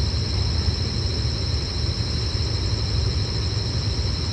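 Steady low rumble of a diesel train at the station, with a steady high-pitched whine in two tones over it.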